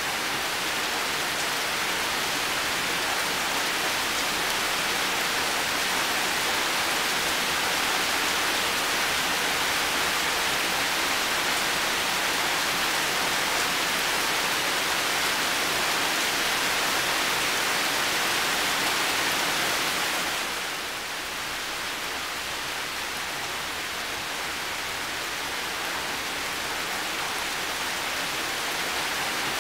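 Heavy rain falling steadily, a dense even hiss. About two-thirds of the way through it drops slightly in loudness and then slowly builds back.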